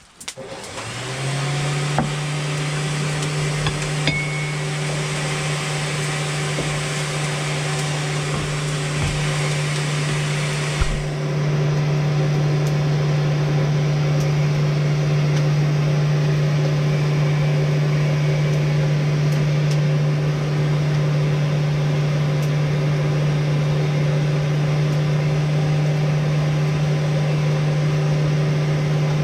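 A motor-driven machine spinning up within the first second and then running steadily with a strong hum over a wide hiss; about 11 seconds in its tone shifts and it gets slightly louder.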